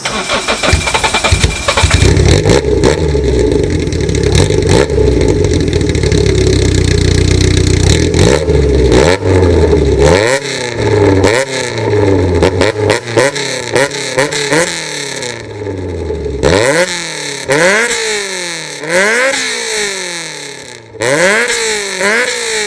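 Toyota AE86 Trueno's twin-cam four-cylinder (4A-GE) running through a CBY muffler with a Kakimoto inner straight pipe, very loud. It starts up and holds a steady fast idle for several seconds, then is blipped again and again, the pitch rising and falling with each rev.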